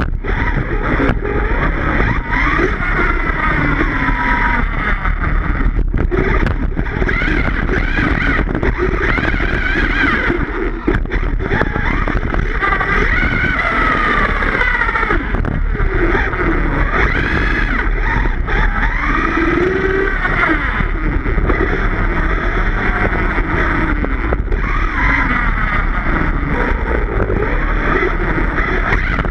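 Redcat Rampage XBE 1/5-scale electric RC car's motor whining, rising and falling in pitch again and again as the throttle is worked, over a steady rushing noise.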